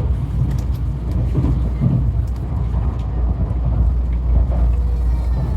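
Tokaido Shinkansen train running, a steady low rumble heard inside the passenger cabin.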